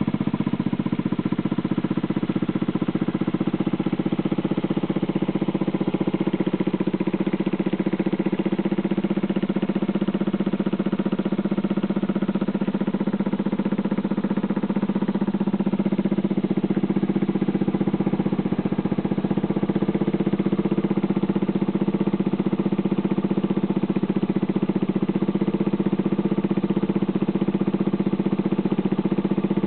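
Small motorcycle engine idling steadily through a knock-off Honda CR110-style muffler.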